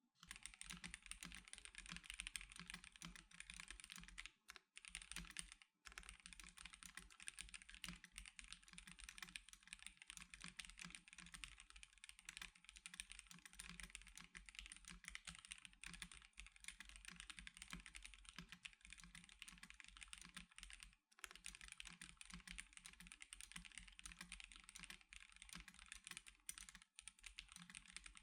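Continuous typing on an Ikki Aurora R2 mechanical keyboard with C³Equalz x TKC Banana Split linear switches and DSA-profile keycaps: a quiet, dense stream of keystroke clacks, broken by brief pauses about five and twenty-one seconds in.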